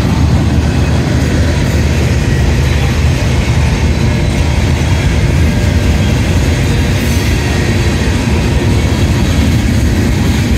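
Freight train cars rolling past: tank cars, a covered hopper and a steel coil car, their steel wheels running on the rails in a loud, steady rumble.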